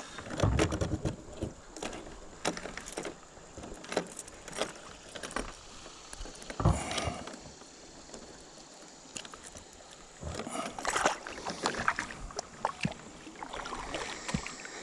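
Scattered knocks, clicks and rustles of fishing gear being handled in a kayak, with light taps on the hull. Quieter for a few seconds in the middle, busier again near the end.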